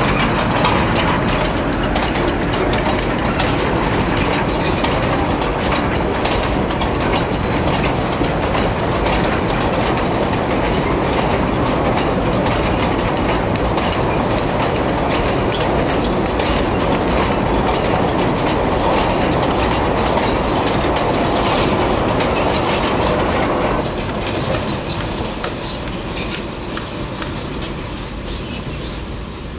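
A narrow-gauge sugar-railway vehicle running along the track, making a loud, steady noise with many sharp clicks. It gets noticeably quieter about 24 seconds in.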